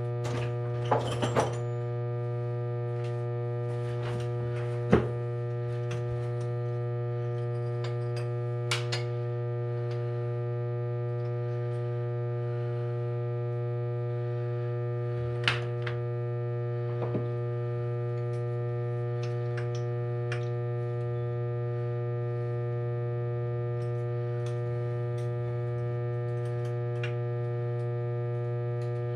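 Steady electrical hum, with a handful of short, sharp clicks and knocks scattered through it, the loudest about five seconds in.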